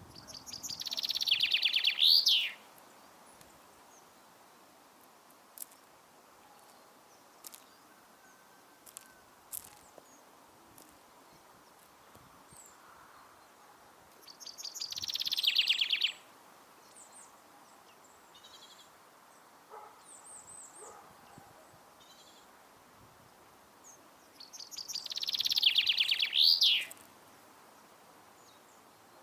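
A songbird singing the same short, fast trilled phrase three times, about ten seconds apart, each phrase swelling and ending in a quick flourish, with faint short chips and clicks in between.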